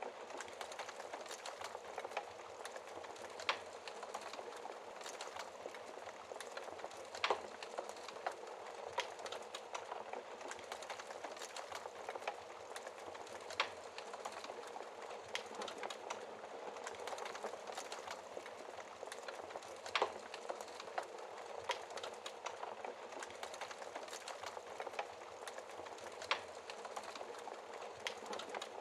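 Wood fire burning in a fireplace: steady crackling hiss with many small ticks and a few sharper pops scattered through.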